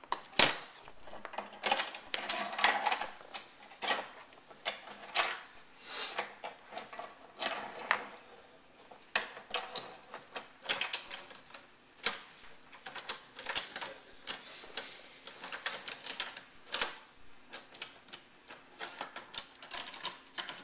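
Irregular clicking and clattering of hard toy train pieces being handled and pushed about on a train table, many small knocks in quick succession.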